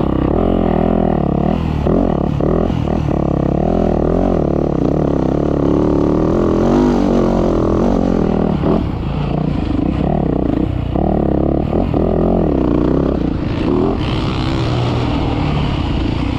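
Motocross bike engine being ridden hard, its pitch repeatedly rising and falling as the throttle is opened and closed through the sand track's corners and straights.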